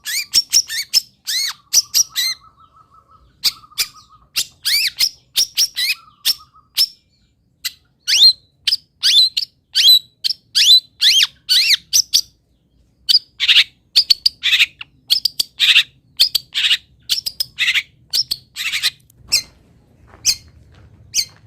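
Long-tailed shrike (cendet) singing a fast, continuous run of sharp chirps and sweeping whistled notes. A softer, lower, even trill sounds underneath three times in the first seven seconds.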